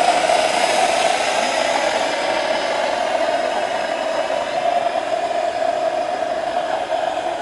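Small home-built turbojet engine running at a steady speed, a continuous rush of air with a steady mid-pitched whine.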